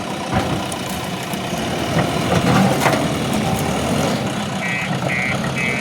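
JCB 3DX backhoe loader's diesel engine running steadily, with a few knocks around the middle. Near the end an electronic warning beeper starts, about two beeps a second.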